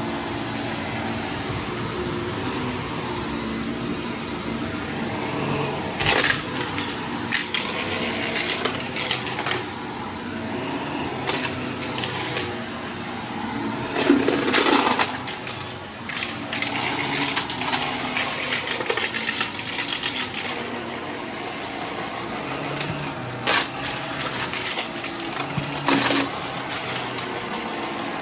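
Vacuum cleaner running steadily, broken by short crackling, rattling bursts as it sucks up debris, the longest about halfway through.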